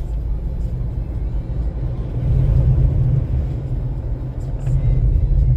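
Steady low rumble of a car driving over a snow-covered road, heard from inside the cabin, growing louder about two seconds in and again near the end.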